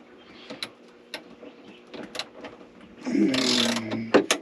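Small clicks and knocks of hand tools and hardware being worked on electrical fittings, with a louder scraping rasp about three seconds in whose pitch slides down, then a quick run of sharp clicks near the end.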